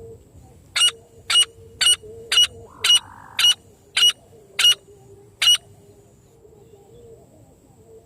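Francolin (teetar) call: a series of nine sharp, loud notes about half a second apart, then stopping about two-thirds of the way through.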